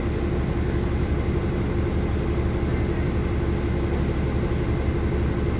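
City bus underway, heard from inside: a steady low rumble of engine and road noise with a constant hum.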